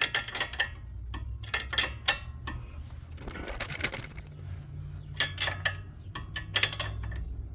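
A hand wrench working a 17mm nut on a new front sway bar link, with irregular metal clicks and clinks as the wrench is set on and turned. There is a short scraping stretch near the middle, over a steady low hum.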